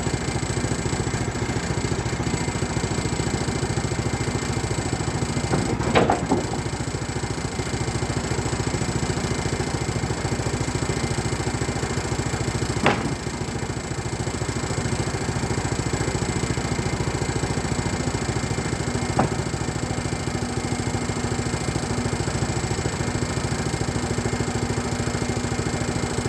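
Petrol-engined sawmill running steadily under load while it cuts one-inch boards from a stringybark log, with three short sharp knocks spaced several seconds apart.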